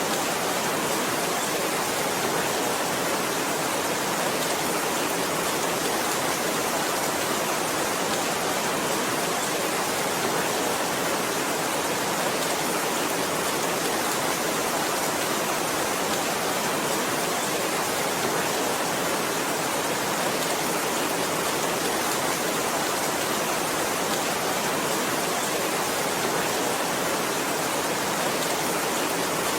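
Heavy rain falling steadily, a dense, even hiss in which no single drops stand out.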